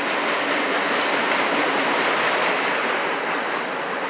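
Norfolk Southern autorack freight train passing, a steady noise of wheels on rail.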